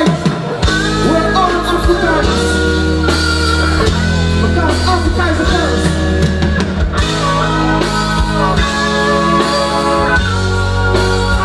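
Live reggae band playing an instrumental passage: a heavy steady bass line under held chords and melodic lines.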